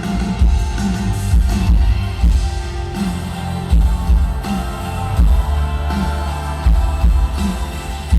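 Rock band playing live, an instrumental passage with guitar over a steady drum beat and bass, no vocals.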